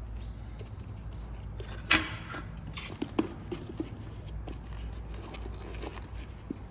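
Tools or parts being handled during a repair: one sharp clank about two seconds in, then a few lighter knocks and clicks, over a low steady hum.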